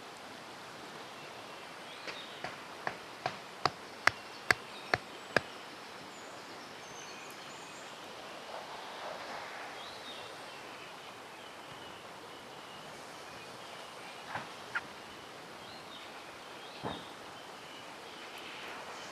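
Steady rush of a mountain stream with faint bird chirps. A quick run of about nine sharp knocks, two or three a second and getting louder, and a few single knocks later on.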